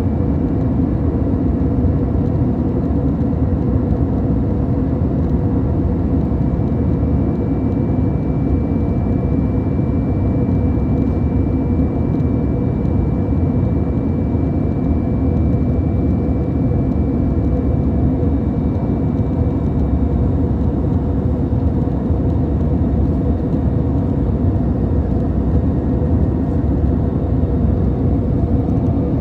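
Steady drone of an airplane in flight, heard from inside the cabin: a loud, even rumble with a steady hum and a thin high whine that fades out about two-thirds of the way through.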